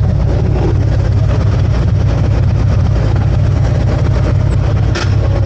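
Harley-Davidson V-twin motorcycle engine running steadily at idle, loud and close. A short sharp click about five seconds in.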